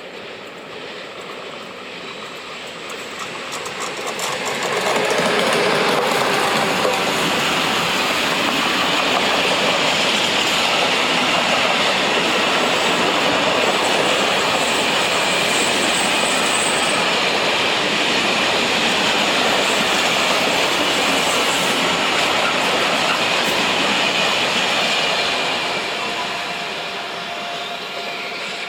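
A train passing on the track close by. It grows loud about five seconds in, runs steadily with wheel-on-rail clatter, then falls away near the end. Thin high-pitched wheel squeal shows through around the middle.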